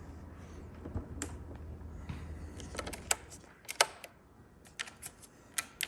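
Scattered light clicks and taps, about a dozen, irregularly spaced, from the fuel petcock levers of a cold 1995 BMW R100GS being turned on before starting.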